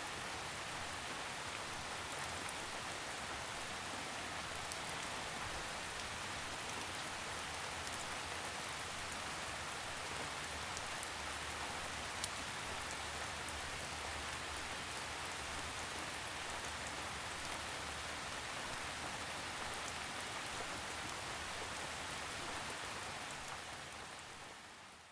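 Steady forest rainfall, an even hiss of rain with scattered drop ticks, fading out over the last two seconds.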